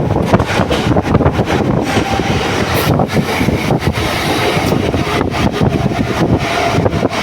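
Moving train, a loud steady rumble full of rapid rattling and clatter, heard from on board.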